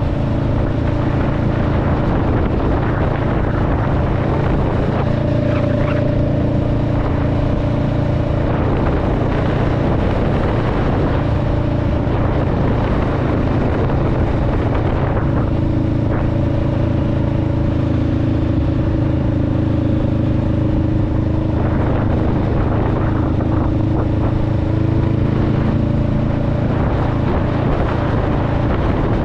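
2021 Honda Rebel 500's parallel-twin engine and exhaust running under way, a steady low drone whose pitch shifts a few times as the throttle and revs change.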